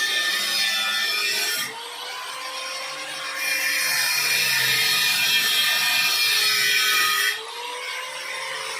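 Angle grinder cutting into the steel shell of a refrigerator compressor to open its lid, in two loud stretches of a few seconds each. Between and after them the disc spins free and the motor whine rises and falls.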